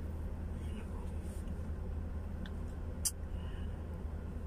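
Hyundai Accent idling at a standstill, heard inside the cabin as a steady low hum, with one sharp click about three seconds in.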